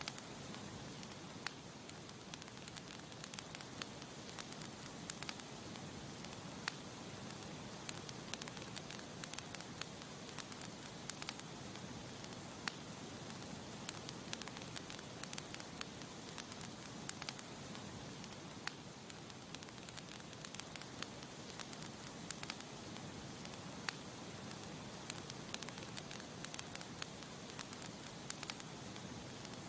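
Campfire crackling: frequent irregular sharp pops and snaps over a steady soft hiss.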